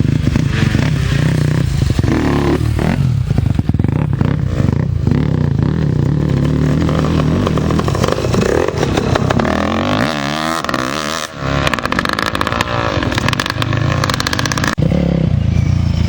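Racing motorcycle engines revving loud as bikes pass close by, the pitch rising and falling as they go through the gears and go past.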